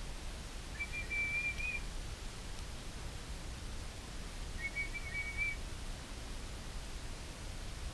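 Someone whistling to call birds: two steady, slightly wavering whistled notes of about a second each, the second coming about four seconds after the first.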